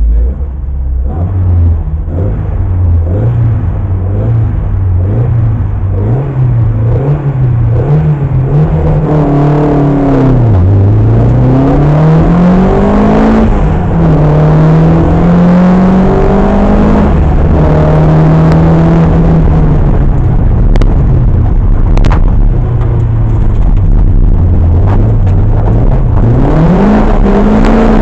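Historic rally car's engine heard from onboard. Its revs rise and fall repeatedly for several seconds, then it accelerates hard through the gears, the pitch climbing and dropping at each change. It then runs at high revs down a straight, eases off briefly, and climbs again near the end.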